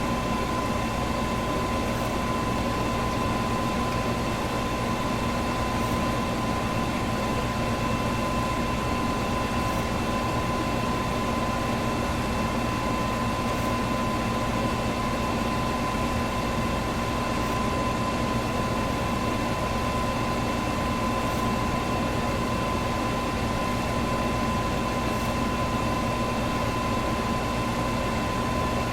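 Electric fan running steadily: an even rushing of air with a constant hum and a thin steady whine.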